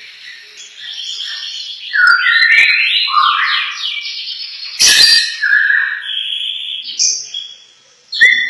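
Lovebird singing in a long, continuous chattering warble of quick gliding whistles and buzzy notes. Two sharp clicks cut in, about five seconds in and near the end.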